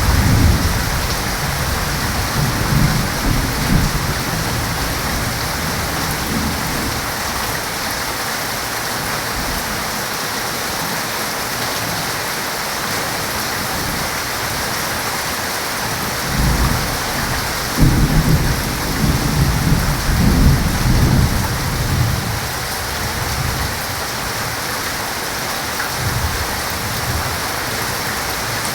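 Heavy rain falling steadily, with rumbling rolls of thunder: one near the start and a louder one about halfway through that fades out several seconds later.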